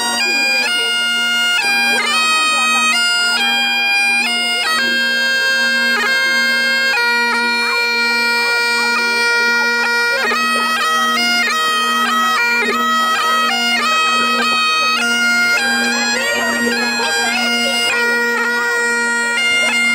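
Scottish bagpipes playing a tune: a steady drone underneath a chanter melody whose notes change step by step.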